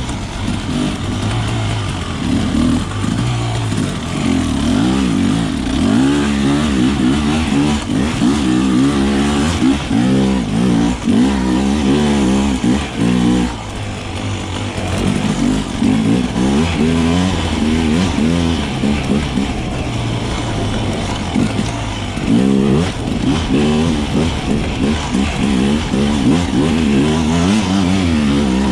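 Dirt bike engine revving up and falling off again and again as the throttle is worked while riding, with a short easing-off about halfway through.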